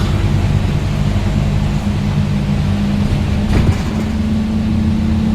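Scania N230UD double-decker bus engine running under way with a steady drone. About three and a half seconds in there is a brief clatter, and then the engine note steps up in pitch.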